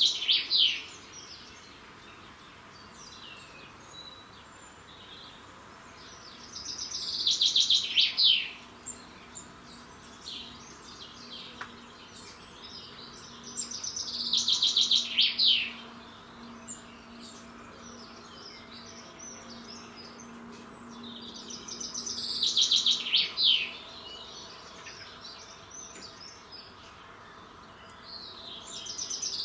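A songbird singing the same short trilled phrase about every seven seconds, each phrase a quick run of repeated notes ending in a falling flourish. Fainter chirps from other birds sound in the gaps.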